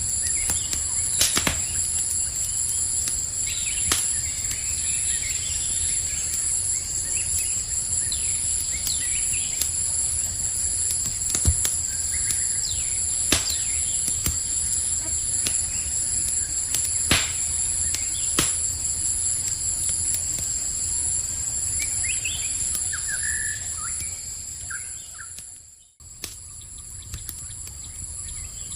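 Campfire crackling with scattered sharp pops, over a steady high-pitched chirring of night insects and a few short bird chirps. Near the end the whole sound drops out suddenly for a moment and comes back quieter.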